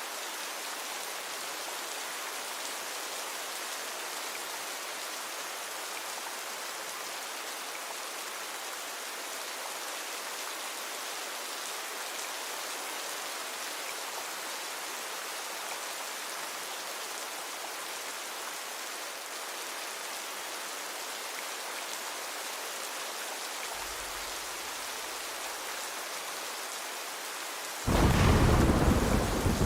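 Steady rain falling. Near the end a faint low rumble comes, then a sudden loud clap of thunder that goes on rolling.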